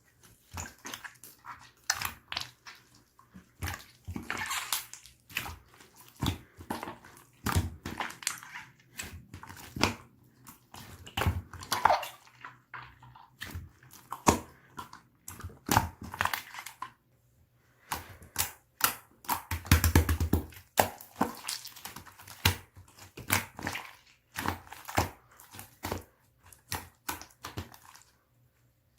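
Slime being squeezed, poked and stretched by hand, giving a run of irregular wet clicks, pops and squelches.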